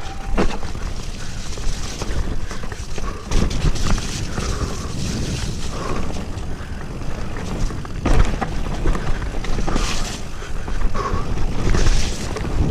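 Mountain bike riding down a muddy, technical trail: a steady rumble of wind and tyres on the camera microphone, broken by frequent knocks and rattles as the bike hits bumps.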